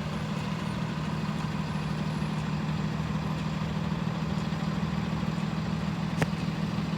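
Motor vehicle engine idling with a steady low hum, with one sharp click about six seconds in.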